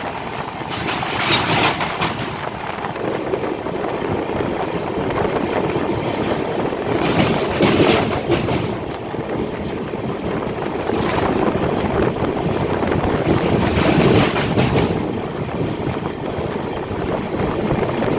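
A train running on the rails, a steady loud rumble and clatter that swells in several surges.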